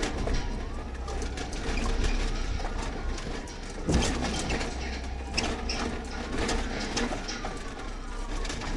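Police siren wailing up and down behind a busy clatter of rattles and knocks, with one louder knock about four seconds in.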